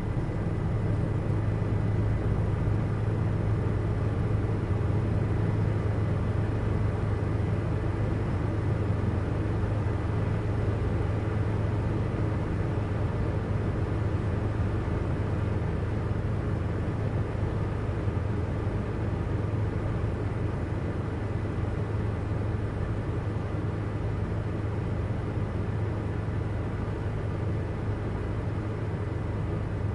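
Helicopter cabin noise in steady flight: an unchanging low drone with a faint steady high tone above it.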